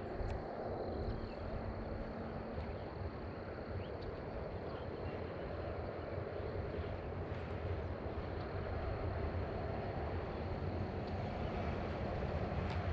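Steady low outdoor rumble with a faint, steady high-pitched whine above it.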